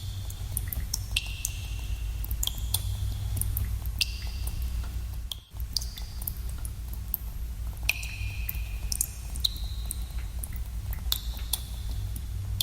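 Water dripping in a cave: irregular drops, many of them plinking with a short ringing tone that fades, over a steady low rumble. The sound cuts out for an instant about five and a half seconds in.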